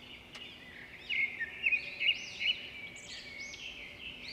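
Birds chirping, many quick high calls and trills overlapping, louder from about a second in.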